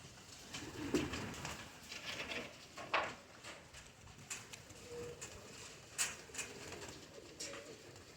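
Pigeons cooing, with scattered sharp clicks and taps, the strongest about three and six seconds in.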